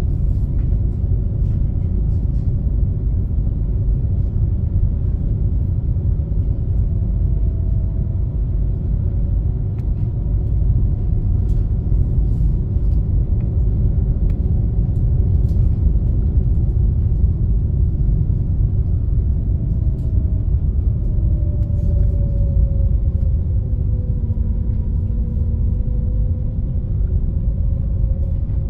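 Super Jet high-speed passenger craft under way: a heavy, steady engine rumble with a droning tone that slides down in pitch about twenty seconds in, as the engine speed changes.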